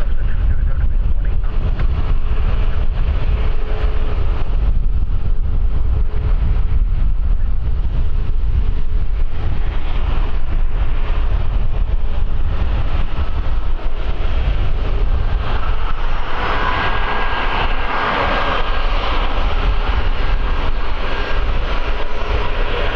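Wind buffeting the microphone with a heavy low rumble, over the engine noise of an aircraft at the airport, which swells with a steady whine about two-thirds of the way through.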